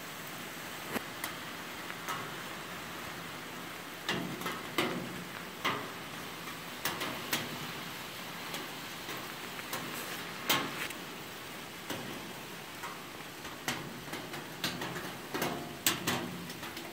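Steady pouring rain, with irregular sharp ticks and taps close by scattered through it.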